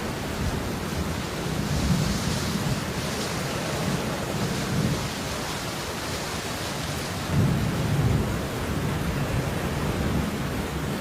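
Steady rain falling, with low rolling thunder rumbling under it that swells about seven seconds in.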